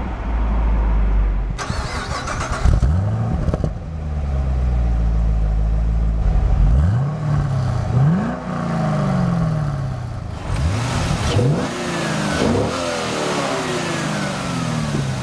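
Chevrolet Camaro SS's 6.2-litre LS3 V8 idling through its dual exhaust and revved several times while standing, each rev rising sharply and dropping back to idle.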